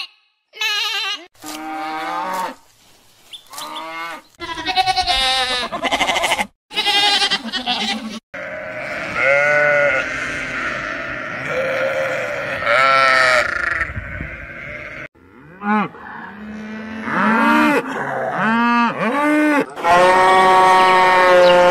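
Sheep and lambs bleating, many separate quavering calls one after another. In the last two seconds a cow moos with one long, steady call.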